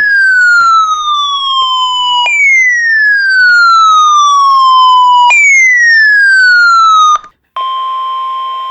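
Three loud electronic siren sweeps, each falling in pitch over about three seconds and restarting high. Near the end they stop and a steady electronic alert tone at about 1 kHz begins, typical of the NOAA Weather Radio warning alarm tone.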